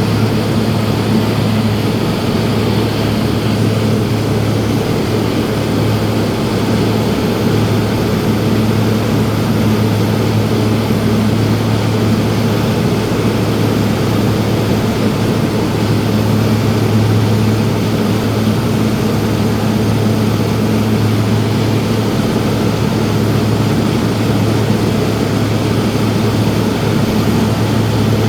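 Light aircraft's engine and propeller droning steadily, heard from inside the cabin in flight, with a strong low hum that holds an even pitch.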